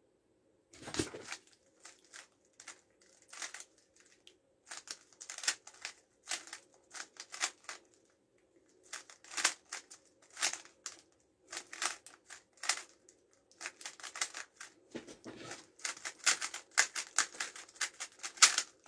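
3x3x3 Rubik's Cube being speedsolved: plastic layers clicking and clacking in quick irregular runs of turns, with short pauses between runs. The turns come faster and closer together near the end.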